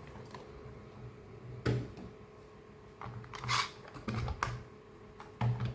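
Toy trains being handled: a few light clicks and knocks of plastic, scattered over the few seconds, over a faint steady hum.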